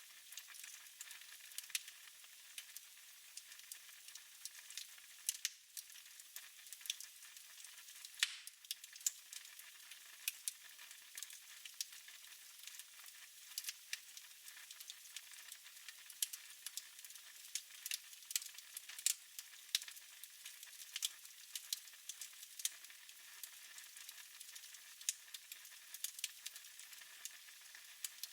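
Wood fire burning in a fireplace: a soft steady hiss with frequent sharp, irregular crackles and pops.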